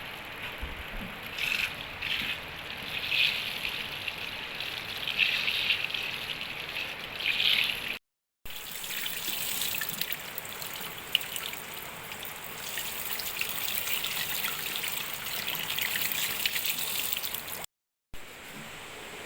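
Water trickling and splashing in uneven surges, cut off twice by brief gaps.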